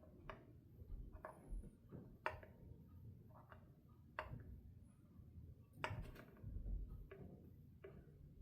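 Light, irregular clicking of a fret rocker tipping back and forth on the frets of a Stratocaster-style guitar neck, a dozen or so small clacks. The clacking shows frets standing very slightly high.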